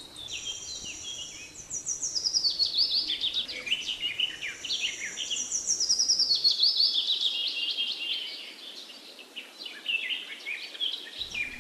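Several birds chirping and singing, with quick repeated notes that fall in pitch in runs, the loudest around two seconds in and again around six to eight seconds in.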